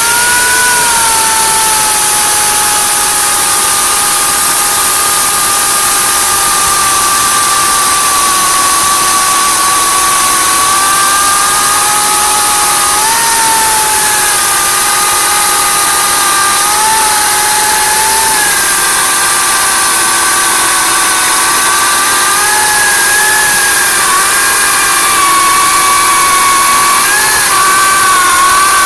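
A 14-inch electric chainsaw running and cutting into a thick, relatively green log that is wider than its bar. Its motor gives a loud, steady whine whose pitch sags slowly and wavers now and then as the chain bites.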